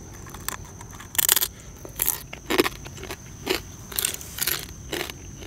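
Grilled rice-field crab being chewed: a run of loud crunches, one every half second or so starting about a second in, as the shell cracks between the teeth.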